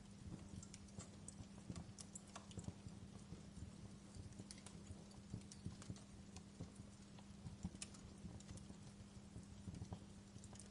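Wood fire crackling in a fireplace: quiet, irregular pops and snaps over a steady low hum.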